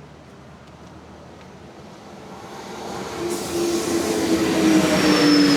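A motor vehicle approaching and passing close by. Engine and tyre noise build over a few seconds to a peak near the end, and its tones drop slightly in pitch as it goes past.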